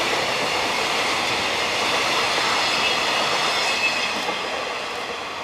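The last container wagons of a freight train rolling past on the rails: a steady rumble of wheels with a faint high ringing squeal and a couple of sharp clicks about four seconds in. The noise fades toward the end as the tail of the train goes by.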